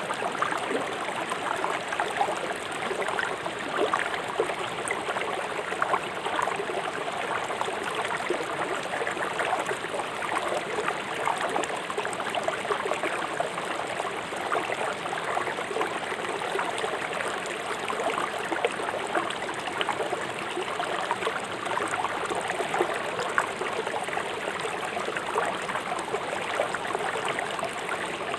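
River water rushing fast over stones: a steady splashing and gurgling flow with no pauses.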